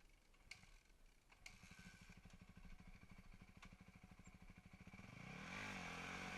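Dirt bike engine idling with a fast, even beat, revved once about five seconds in, its pitch rising and falling back. A few light clicks come before the engine sound.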